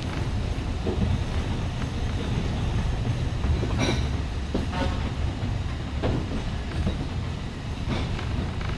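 Alishan Forest Railway passenger car rolling along its narrow-gauge track: a steady low rumble with occasional sharp clicks over the rail joints and brief wheel squeals, the first about four seconds in.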